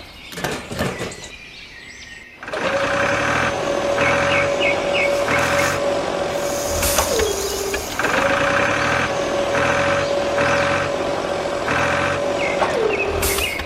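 Mini truck's motor running in two long stretches with a steady whine and a pulsing beep-like pattern about twice a second. Each stretch ends with the pitch dropping as it stops. A few light clicks come before the first stretch.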